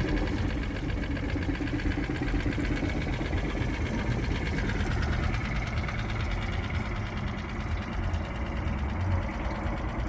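2002 Nissan (Tohatsu) 6 hp single-cylinder four-stroke outboard motor, throttled back at the start, then idling steadily with an even beat of firing pulses.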